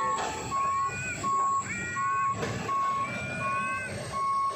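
Electronic warning beeper, of the kind used as a vehicle's reversing alarm, sounding one steady tone about seven times in a regular beat. Higher wavering tones rise and fall above it.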